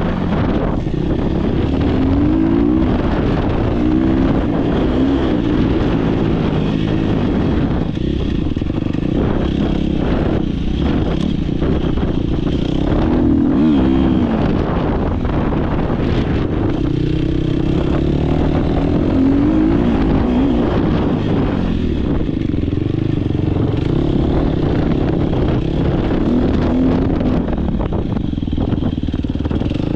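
Dirt bike engine racing under hard riding, its pitch rising and falling over and over as the rider accelerates, shifts and backs off.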